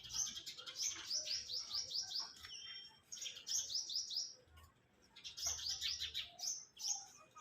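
Small birds chirping: quick runs of high, falling chirps, about five a second, come in three bursts with short pauses between.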